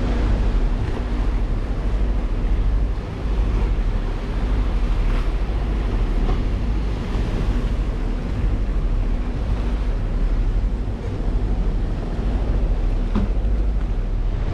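A boat's motor running steadily, with wind buffeting the microphone and rushing water over it.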